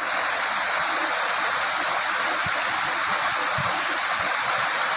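Waterfall rushing close by: a steady, unbroken roar of falling water and spray.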